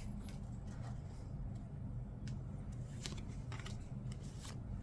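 Trading cards being handled and flipped through by hand: faint, scattered clicks and light snaps of card stock, over a low steady hum.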